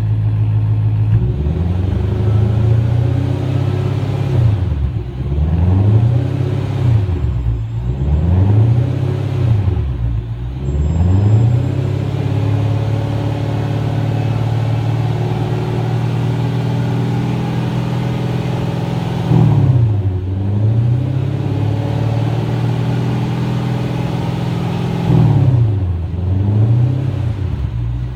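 Lexus LS600h's 5.0-litre V8 exhaust through a straight-through rear muffler, idling and blipped. Five quick revs come in the first ten or so seconds, then a steady idle broken by two more revs about twenty and twenty-five seconds in.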